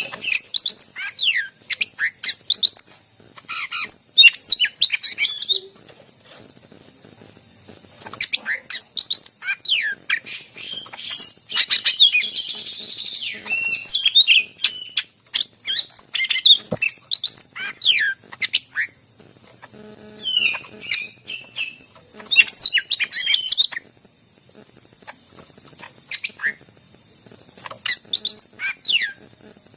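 Green leafbird (cucak ijo) singing in bouts of rapid, varied chirps and slurred, gliding whistles, with pauses of a second or two between phrases.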